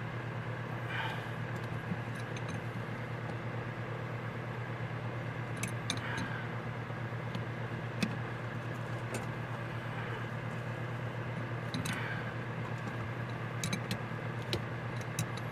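Scattered light clicks and taps of hands and tools working on an Edelbrock 1406 four-barrel carburetor to free its top, over a steady low hum.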